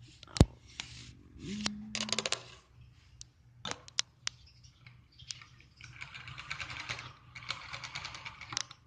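Small pet birds chattering, a fast, clicky rattle of calls that builds up in the second half, with a sharp click near the start and a few scattered ticks.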